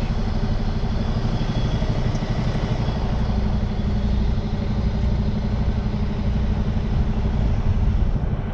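Semi truck's diesel engine running steadily at low revs as the truck reverses slowly.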